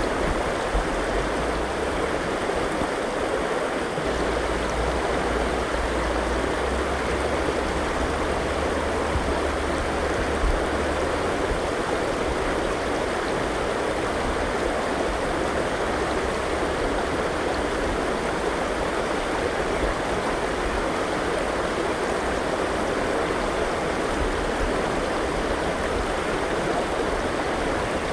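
A forest river flowing with a steady, even rushing sound, joined by a low rumble from about four to eleven seconds in.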